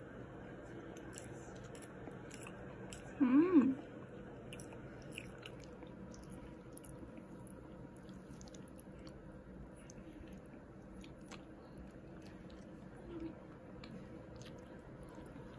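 A person chewing soft cake, with small clicks of a metal spoon and fork in a cardboard box, over a steady low background hum. About three seconds in comes a short pitched hum that rises and falls, the loudest sound.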